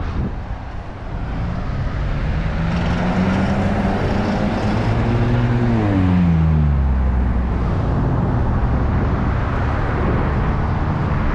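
A car passing close by on the road, its engine hum growing louder and then dropping in pitch as it goes past about six seconds in, over steady road and wind noise.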